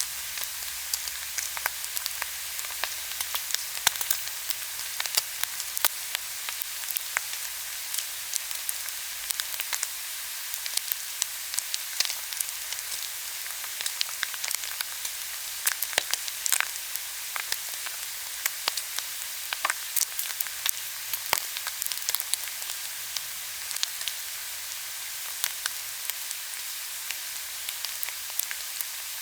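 Pork belly sizzling on a hot grill: a steady hiss with frequent sharp crackles and pops.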